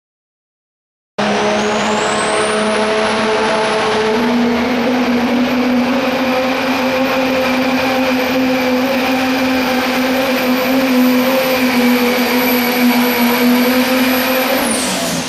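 Pro stock diesel pickup engine running flat out under load in a truck pull, with a high turbocharger whine that climbs over about two seconds and then holds steady. It starts abruptly about a second in and cuts off sharply at the very end.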